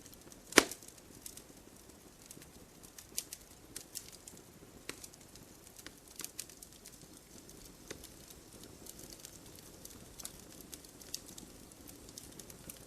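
Wood campfire crackling: irregular sharp pops and snaps over a soft steady hiss of the flames, with one loud pop about half a second in.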